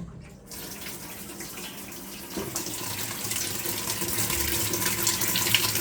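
Speed Queen top-loading washing machine filling with hot water: a strong stream pouring into the tub, starting about half a second in and getting louder.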